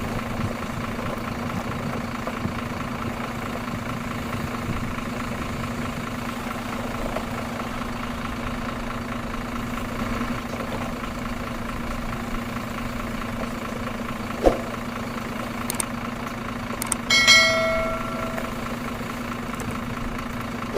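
A steady, unchanging engine hum like an idling motor, with one sharp knock about two-thirds of the way through and a brief ringing tone a few seconds later.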